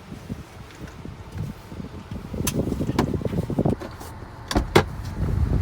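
A car's low rumble with a few sharp clicks and knocks: one about two and a half seconds in and a quick pair near the end.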